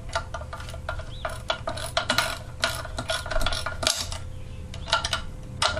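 Ratchet wrench clicking in short irregular runs while turning the connecting rod cap bolts of a small Tecumseh lawnmower engine, with some clinks of metal parts.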